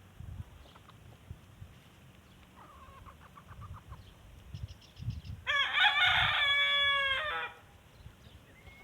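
A rooster crowing once: one long, loud crow of about two seconds, starting about five and a half seconds in. A faint run of short calls comes a few seconds before it, over low rumbling thumps.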